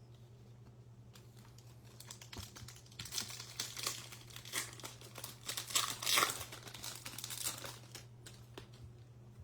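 Foil trading card pack being torn open and its wrapper crinkled, a dense crackling that builds and peaks past the middle before dying away near the end.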